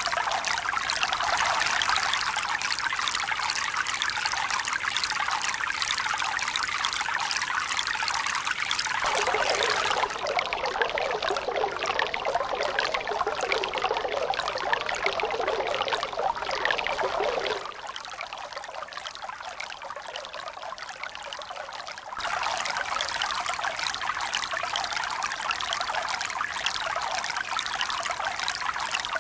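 Steady rushing, pouring water. About nine seconds in it turns deeper and duller. Near eighteen seconds it drops quieter, and a few seconds later it switches back to the brighter sound it began with.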